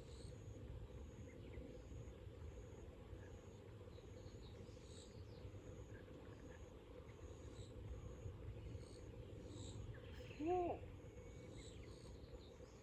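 Steady low rush of river water, with an insect chirping high and faint about twice a second. About ten seconds in there is one short call that rises and falls in pitch.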